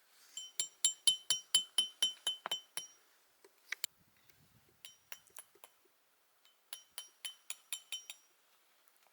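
Rapid clinking of something striking a small ringing vessel, about five strikes a second, each with the same high ring. There are two runs, with a few scattered clinks between them.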